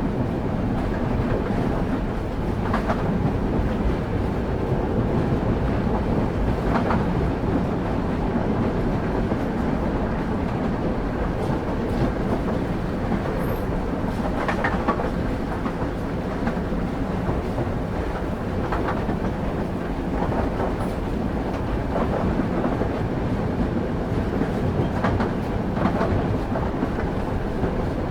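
Train running along the track: a steady low rumble of railway wheels on rails, with a scattering of sharp wheel clacks over rail joints several seconds apart.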